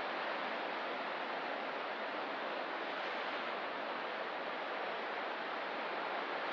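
Ocean surf: a steady, even wash of waves with no single break standing out.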